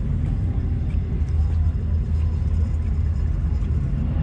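Car engine idling with a steady, low rumble.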